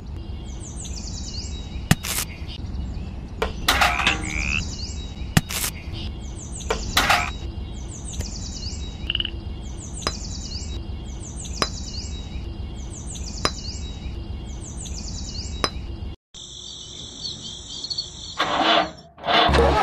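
A bird chirping over and over, one short high call about every second, with scattered clicks and knocks from small clay bricks and a metal strip being set on a toy trailer. Near the end the chirping cuts off, leaving a steady high hiss, then a louder noise starts.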